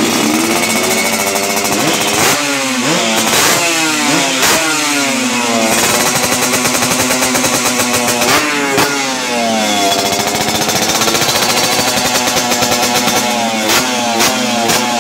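Yamaha RXZ two-stroke single revved through an aftermarket under-belly 'kolong' expansion-chamber exhaust. It runs steadily, with three spells of quick throttle blips that rise and fall in pitch: a couple of seconds in, around the middle, and near the end.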